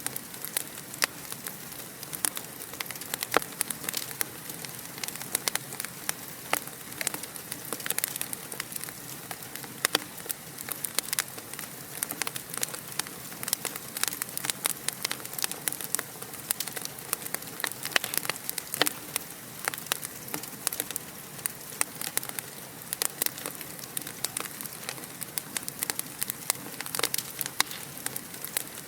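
Fire crackling in a fireplace: a steady hiss with frequent sharp pops and snaps at irregular intervals.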